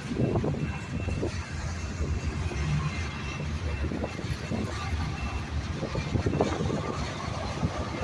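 BNSF freight train rolling past with a steady low rumble.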